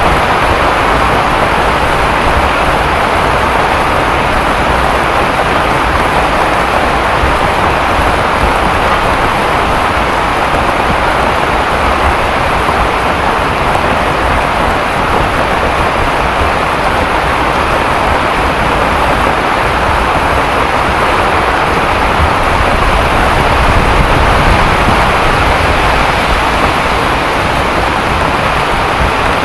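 Heavy rain falling steadily as an even, unbroken rushing noise.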